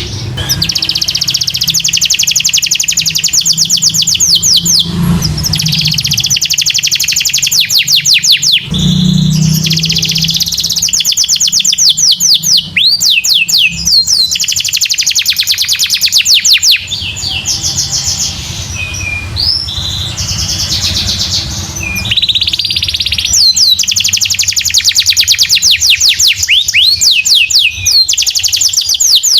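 Domestic canary singing a long, fast song of rapid chirping trills, in phrases broken by short pauses.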